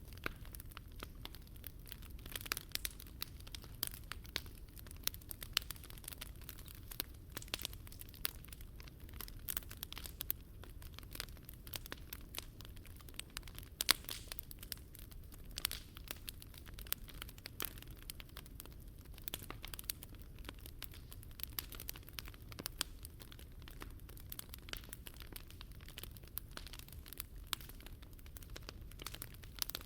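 Wood fire crackling and popping, with many irregular sharp snaps and one louder pop about halfway through, over a low steady rumble.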